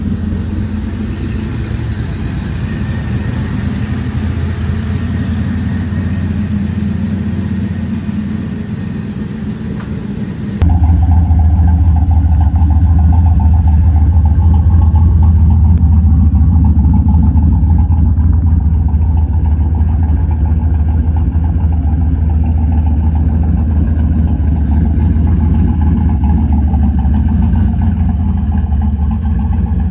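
Turbocharged LS V8 in a 1991 Chevy Silverado running steadily through its newly built custom stainless exhaust. About ten seconds in the exhaust note jumps abruptly louder and deeper, then holds steady.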